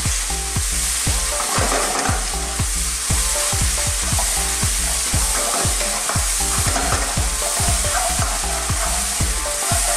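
Sauce of soy, oyster sauce, sesame oil, garlic, ginger, chili and spring onion sizzling in a hot non-stick wok as a metal ladle stirs it. The ladle scrapes and taps against the pan several times a second over a steady frying hiss.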